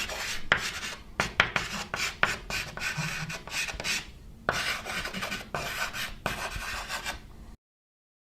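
Writing on paper: irregular scratchy strokes with a short break about four seconds in, cut off abruptly about seven and a half seconds in.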